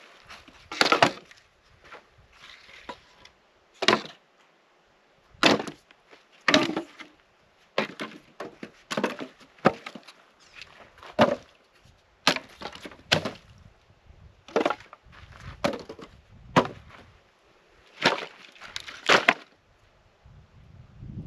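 Wood being chopped by hand for a campfire: a run of sharp, splintering strikes, roughly one a second and some in quick pairs, stopping near the end.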